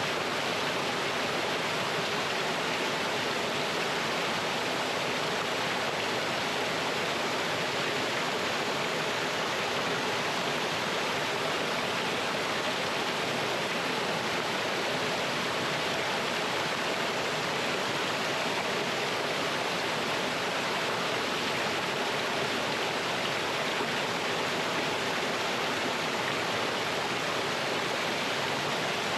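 Mountain stream running over rocks and small falls: a steady, even rush of water.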